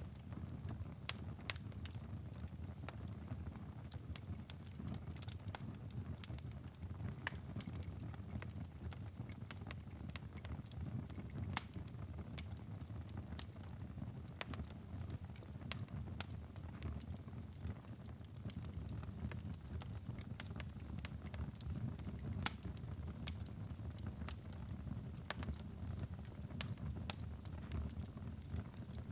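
Wood fire burning in a fireplace: a low steady rumble of flames with sharp crackles and pops scattered irregularly.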